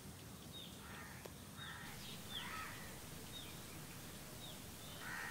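Faint birds calling: a short, high, falling chirp repeating about twice a second, with a few lower calls in between.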